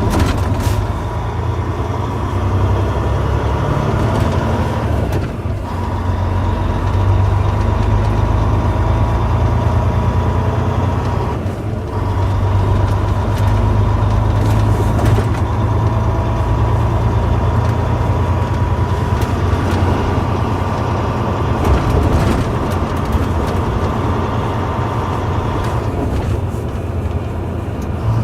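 Volvo D16 inline-six diesel engine of a Volvo 630 semi truck running steadily under way, heard from inside the cab as a low drone, with a few short knocks or rattles along the way.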